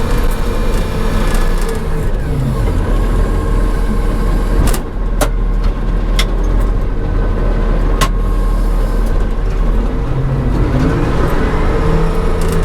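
Payloader's diesel engine running while moving snow. Its pitch drops about two seconds in and climbs again near the end, with a few sharp knocks in between.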